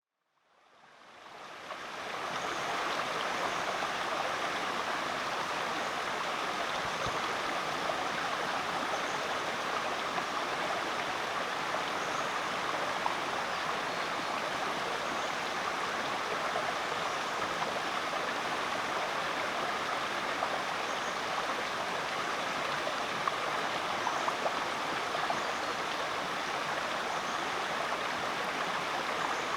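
Creek water running steadily, a continuous rushing babble that fades in over the first two seconds.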